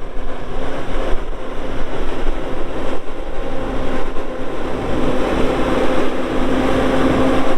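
Bobcat S770 skid steer's diesel engine running steadily at a constant pitch, the drone growing somewhat louder over the last couple of seconds.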